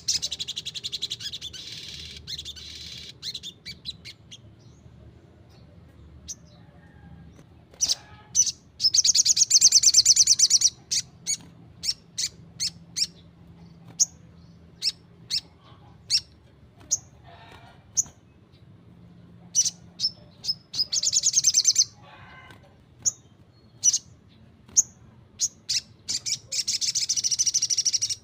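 Sogon, a small sunbird, singing. Four long, rapid, high trills, each a second or two, with sharp single chirps about a second apart between them.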